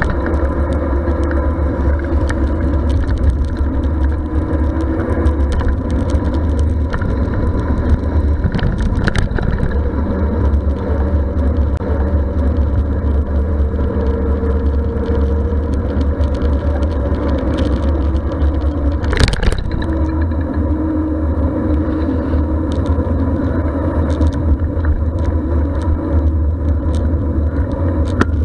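Steady wind rumble on a bicycle-mounted action camera and rolling road noise while cycling, with one sharp knock about two-thirds of the way through.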